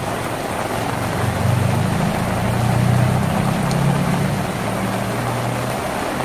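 Steady rain drumming on a tin roof, with a low engine-like hum underneath that swells in the middle and eases off near the end.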